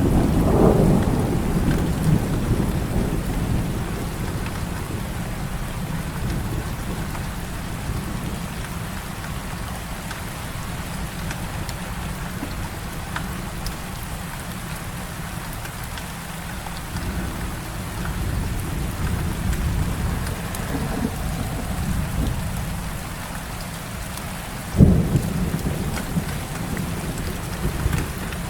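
Heavy rain falling steadily with thunder: a low rumble fading out over the first few seconds, another rumble swelling and dying away in the middle, and a sudden sharp clap near the end.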